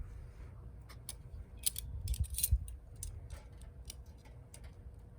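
Wood burning in a homemade wood gas stove, crackling and popping irregularly, with a cluster of louder pops around two seconds in, over a low rumble.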